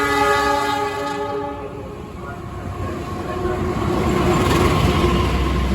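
Diesel locomotive horn of the Taksaka passenger train sounding one steady blast of about two seconds. The low rumble of the train then builds toward the end.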